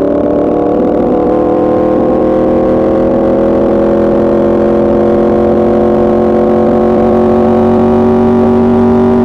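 A 2024 Yamaha R1's crossplane inline-four engine, through an Arrow Pro Racing exhaust, pulls steadily under throttle in one gear. Its note climbs slowly in pitch as the bike gathers speed.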